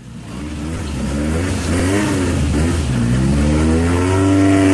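Rally car engine revving hard under acceleration, its pitch climbing and dropping several times as the driver works through the gears and a corner. The sound fades in at the start.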